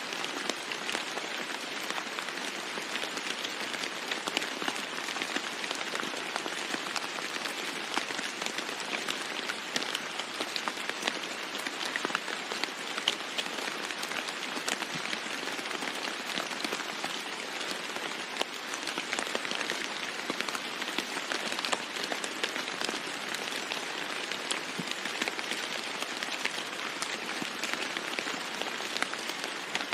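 Steady rain falling on a roof: an even hiss dense with many small drop hits, holding at one intensity without letting up.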